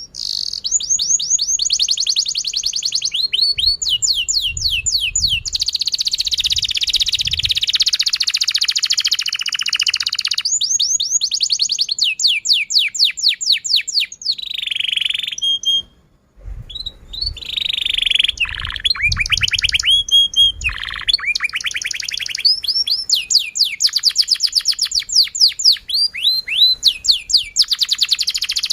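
Domestic canary singing a long, continuous song of rapid trills: fast runs of repeated down-sweeping chirps. There is a brief pause about sixteen seconds in.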